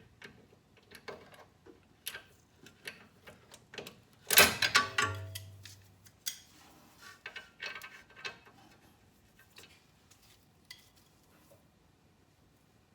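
Hand tools clicking and clinking against metal parts of a car's front suspension, irregular sharp clicks with one louder metallic clatter that rings briefly about four seconds in.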